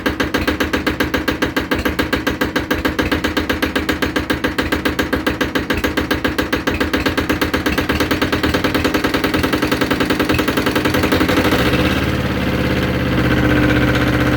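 Two-cylinder non-turbo Yanmar diesel tractor engine running at a chugging idle with distinct, even firing pulses, still warming up after a cold start. Near the end it picks up speed and the pulses blend into a steadier, slightly louder run.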